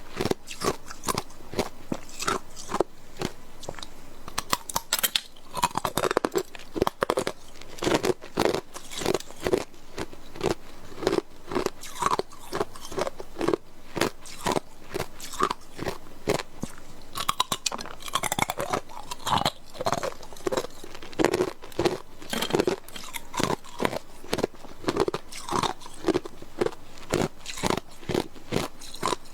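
A person biting and chewing hard ice cubes close to the microphone: a steady run of sharp, crisp crunches, several a second.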